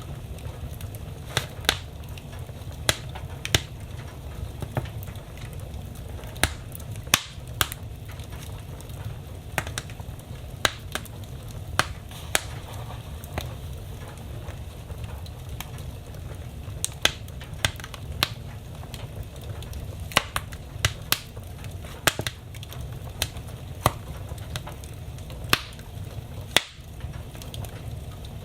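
Wood fire burning in a fireplace: a steady low rumble of the flames with sharp crackles and pops of the burning logs at irregular intervals.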